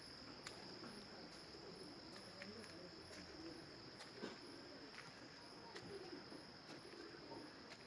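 Faint insect chorus: a steady high trill with a softer chirp repeating about twice a second, and a few faint clicks.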